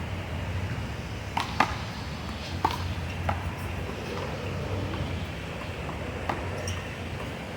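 A one-wall handball rally: a small rubber handball smacked by hand and bouncing off the wall and pavement, several sharp smacks at uneven gaps, over a steady low outdoor background hum.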